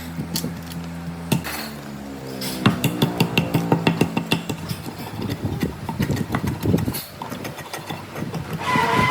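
Workshop work sounds: a steady machine hum that stops about a second and a half in, then a run of irregular knocks and taps, as of wood and tools being handled or struck.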